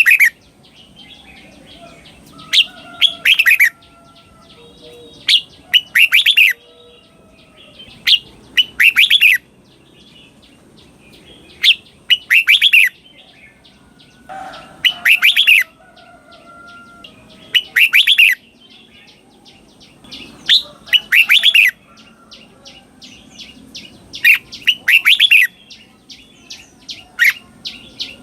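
Red-whiskered bulbul singing its doubled song: a short, quick cluster of clear notes, repeated at once, with a pair of phrases about every three seconds.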